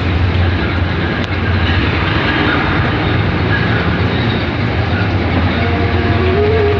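Heavy storm rain and wind, a loud steady rush with a deep rumble underneath. A faint tone rises near the end.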